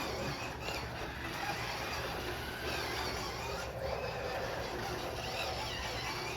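Electric motors of remote-control toy cars whining as they drive, the pitch rising and falling with the throttle.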